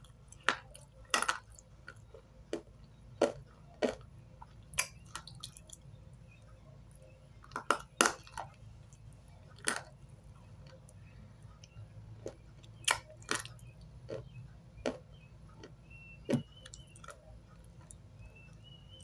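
A person biting and chewing stale chalk close to the microphone: sharp, irregular crunches and snaps, roughly one a second, some much louder than others, with quieter mouth sounds between.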